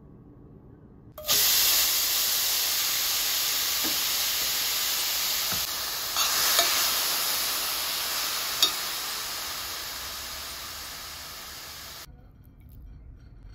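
Chopped mushrooms sizzling in a stainless steel pan. The sizzle starts suddenly about a second in, fades slowly, and cuts off suddenly near the end. A few light clicks come from a metal spoon stirring against the pan.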